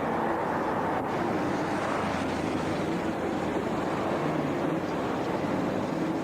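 Meitetsu Inuyama Line electric train running: a steady noise with a low hum underneath.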